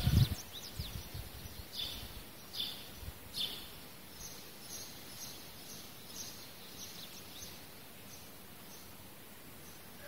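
Steady background noise with a few short, high bird chirps about two to three and a half seconds in. There is a dull thump at the very start.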